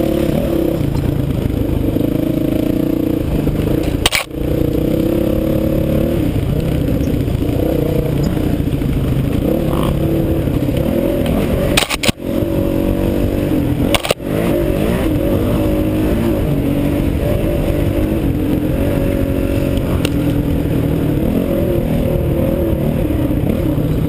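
Honda CRF450X's single-cylinder four-stroke engine running hard under a rider on a trail, its revs rising and falling with the throttle, with rattling and scraping over rough ground. The sound drops out sharply with a knock three times, about four, twelve and fourteen seconds in.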